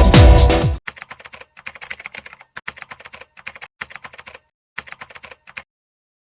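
Electronic dance music cuts off abruptly under a second in. Rapid computer-keyboard typing follows in several short runs of clicks with brief pauses, stopping about a second before the end.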